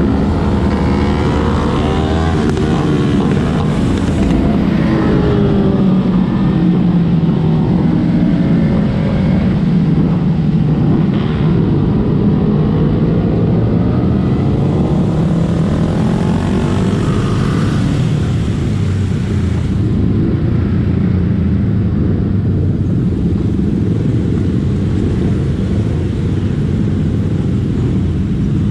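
Motorcycle engines on a group ride, their pitch rising and falling as the bikes accelerate and ease off, over a steady rush of wind and road noise.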